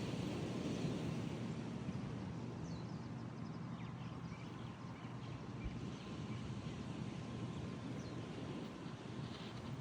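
Outdoor ambience: a steady low rumble, with a few faint high bird chirps now and then.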